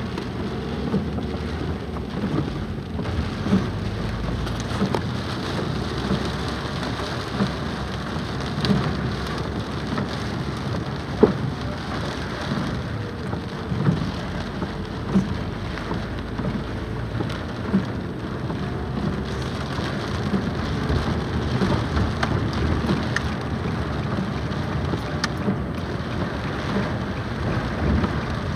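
Steady rainfall, with scattered sharp taps of drops landing close by at irregular moments; the loudest tap comes about eleven seconds in.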